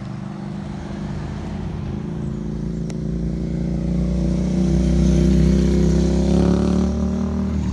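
A motor vehicle's engine running and drawing closer, growing steadily louder to its loudest about five seconds in, then easing off slightly.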